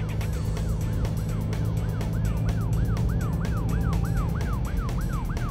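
Police car siren sounding in fast up-and-down sweeps, about three a second, growing louder in the second half.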